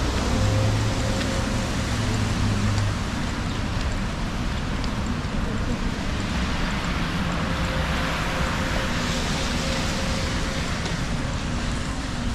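Wet city street ambience: traffic running on rain-soaked roads, a steady hiss of tyres and rain with a low engine hum in the first few seconds. A vehicle's tyre hiss on the wet road swells and fades about eight to ten seconds in.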